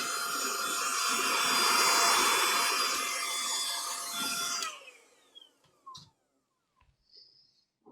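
An electric fan or blower motor running steadily with a whirring hum, switched off about two-thirds of the way through and spinning down with a falling whine, followed by a few light clicks.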